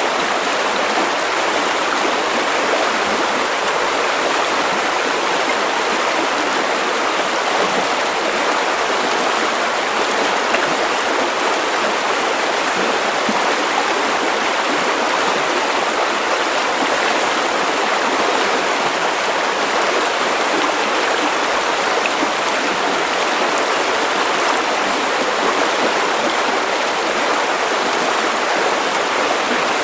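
River water running over stones, a steady, even rushing and babbling.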